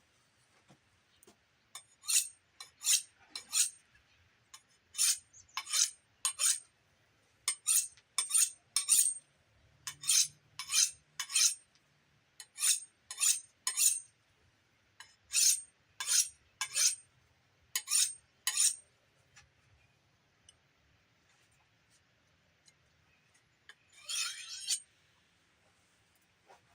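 A steel bowie knife blade drawn along a sharpener in quick strokes, mostly in sets of three, each stroke a short scrape with a thin metallic ring. After a pause, one longer stroke comes near the end.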